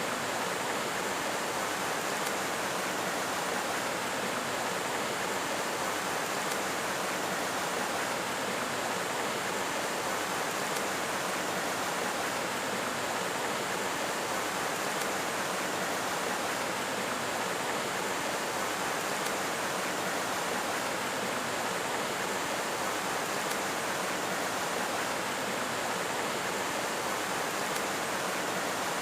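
Steady rushing of flowing water, even and unchanging.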